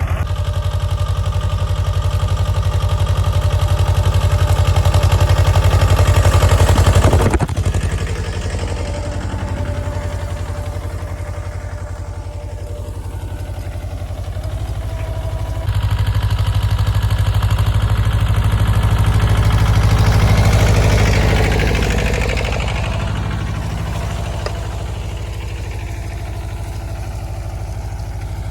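Mahindra Jivo 305 DI tractor's diesel engine running, its revs building then dropping suddenly about seven seconds in; about halfway through the revs jump up again, then ease back down.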